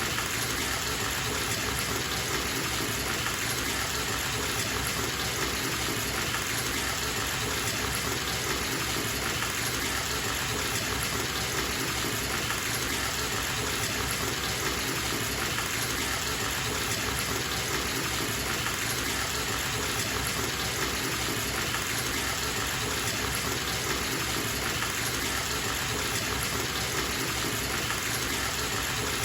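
Water running from a bathtub tap and splashing into the tub as it fills, a steady, even rush with no change.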